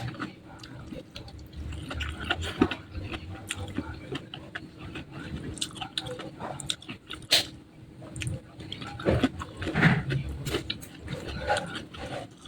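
Close-miked chewing and wet mouth sounds of someone eating, with irregular clicks and smacks.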